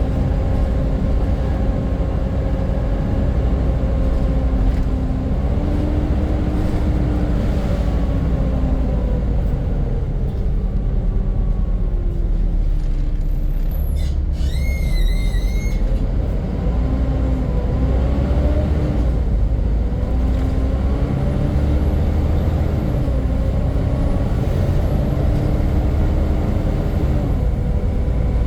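Volvo B7 double-decker bus under way: the engine and drivetrain give a loud, whining 'hoover' note that rises and falls as the bus pulls away and changes gear. About halfway through, a brief high squeal lasts a second or so.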